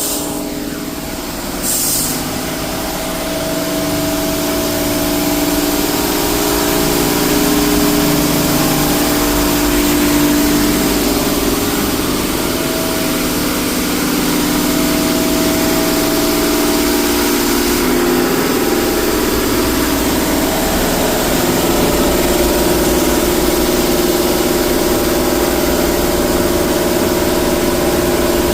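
Mark VII AquaJet XT touchless car wash blasting high-pressure water: a loud, steady hiss of spray over a steady machinery hum.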